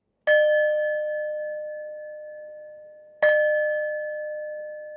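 A singing bowl struck twice, about three seconds apart. Each strike rings on with a clear, slowly fading tone and a few higher overtones.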